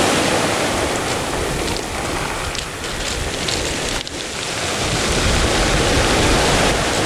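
Rough sea waves breaking and surging onto a pebble beach, with wind buffeting the microphone. The surf eases briefly about halfway through and then swells again.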